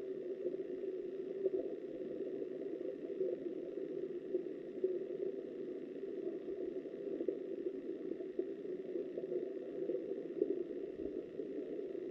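Steady muffled rush of flowing river water heard underwater through a camera's waterproof housing, with a few faint ticks.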